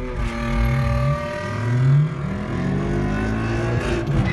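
A Ford car's engine, heard from inside the cabin, accelerating hard from a drag-strip launch: the pitch climbs, drops at a gear change about two seconds in, then climbs again.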